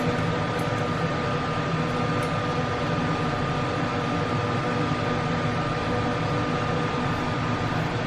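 Steady mechanical running noise with a constant whine, unchanging throughout.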